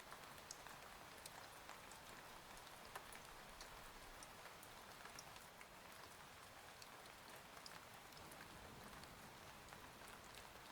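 Faint steady rain ambience, with scattered sharp drop ticks over an even patter.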